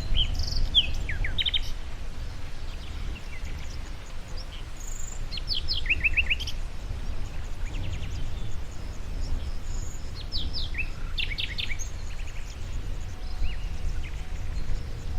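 Songbirds chirping in short bursts of quick, high notes that slide downward, coming every few seconds over a steady low rumble.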